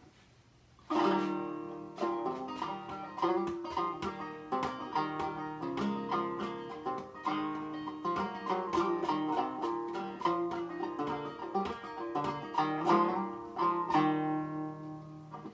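1895 Cole 3000 'Man in the Moon' banjo, tuned well below standard pitch, played: a short tune picked note by note starting about a second in, ending on a chord that rings out and fades.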